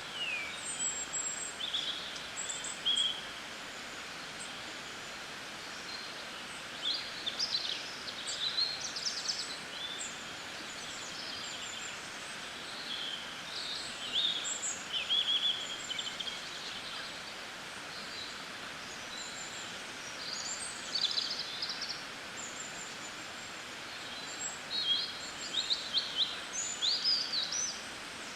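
Songbirds chirping and singing in short clusters of high calls every few seconds, over a steady background hiss.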